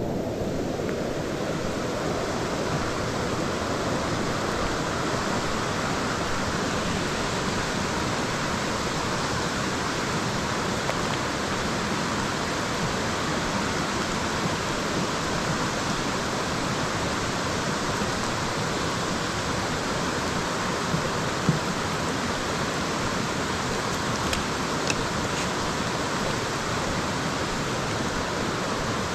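Steady, unbroken rush of flowing water from a creek or waterfall, loud and even throughout, with a couple of faint knocks about 21 seconds in.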